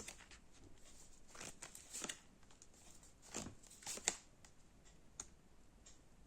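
Faint rustling and light taps of tarot cards being handled, a handful of short soft sounds spread over a few seconds.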